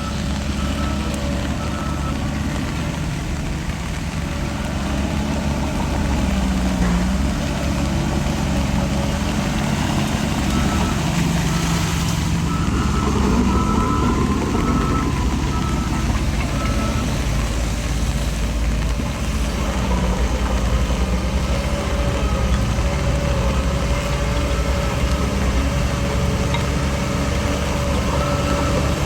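Heavy diesel earthmoving machinery running steadily under load, with a reversing alarm beeping in spells. A single sharp knock about twelve seconds in.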